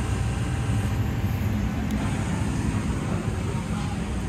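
A motor vehicle running along, its engine and road noise making a steady low rumble.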